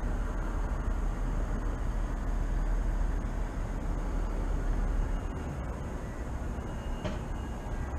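Steady low rumble of city traffic, with a single short sharp click about seven seconds in.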